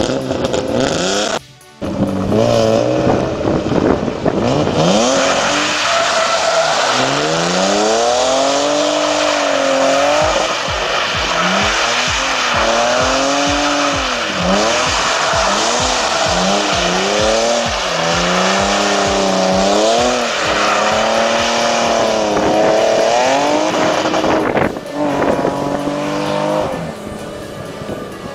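BMW E36 323i's 2.5-litre straight-six with a straight-piped exhaust, loud and revving up and down over and over, with a dense hiss running underneath. Both die down about 25 seconds in.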